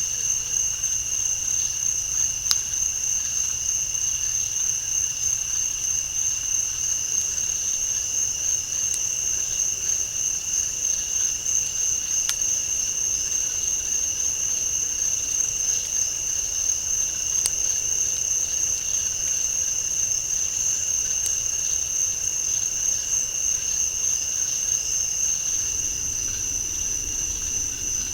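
Steady night-time insect chorus in a swamp: two continuous high-pitched drones, one very high and one lower, with a few faint sharp clicks now and then.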